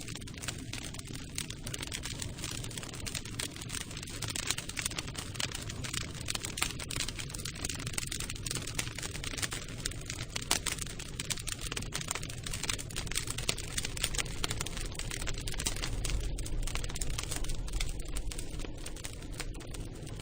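Campfire crackling: a dense run of small snaps and pops over a low rumble of burning wood.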